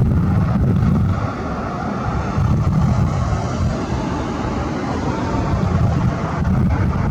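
Kaman K-MAX helicopter's turbine engine and intermeshing twin rotors running, a loud, steady rumble.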